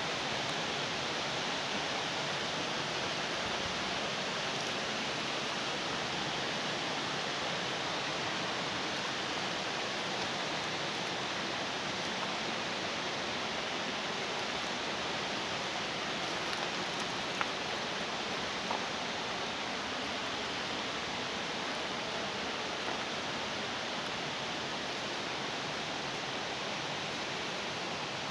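Steady rush of running water from a small cascade on a water channel.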